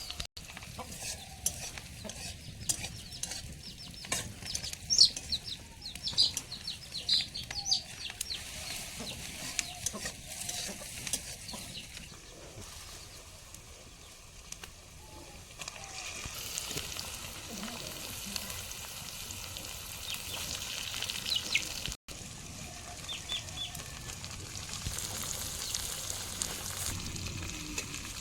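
Chickens clucking in the first half, then a pan of curry sizzling in hot oil as it is stirred.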